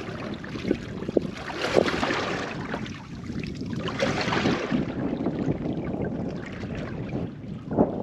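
Sea water lapping and splashing against a small boat's hull, with wind on the microphone. There is a brighter hissing wash in the middle and a few light knocks.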